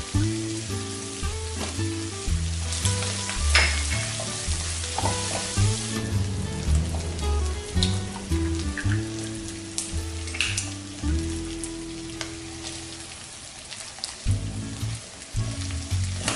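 Tripe and intestine sizzling in hot oil in a nonstick wok, with a spatula scraping and clicking against the pan as it stirs. The sizzle is strongest in the first half and eases off later. Soft background music with low held notes plays underneath.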